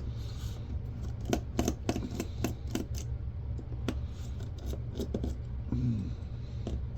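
Irregular sharp clicks and ticks of hand tools working on the small metal and plastic parts of a 1982 General Electric camcorder being dismantled, over a steady low hum.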